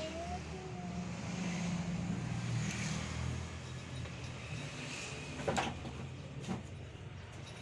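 A steady low motor hum, with a couple of sharp clicks about five and a half and six and a half seconds in.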